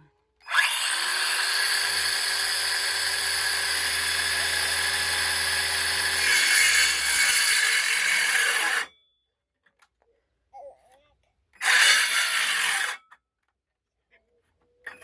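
Power saw cutting through a wooden board: one long cut of about eight seconds that stops abruptly, then a shorter burst of the saw about twelve seconds in.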